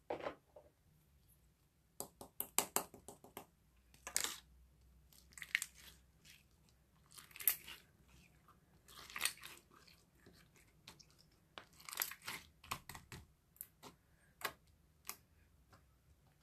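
Crisp crackling and clicking in irregular clusters, close up, like something crunchy being chewed or squeezed.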